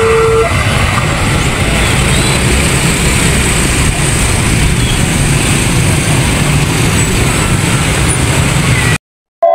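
A train passing close by: a loud, steady rumble of wheels and engine. It cuts off suddenly near the end.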